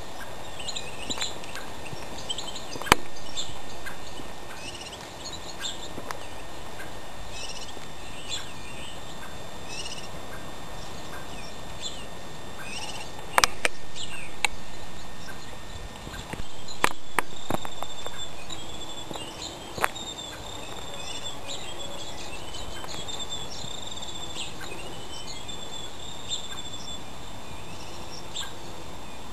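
Birds chirping and calling over and over, with a longer warbling song partway through. A few sharp knocks cut in at intervals.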